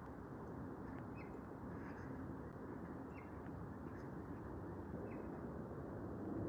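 Outdoor ambience: a steady low background hiss with a small bird chirping briefly about four times.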